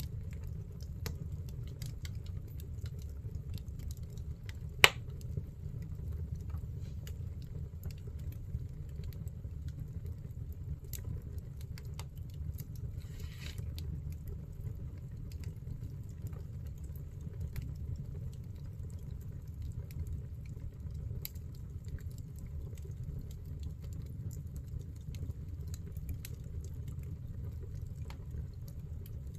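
Firewood burning in a fireplace: a steady low rumble with scattered small crackles and one sharp, loud pop about five seconds in, plus a brief hiss around the middle.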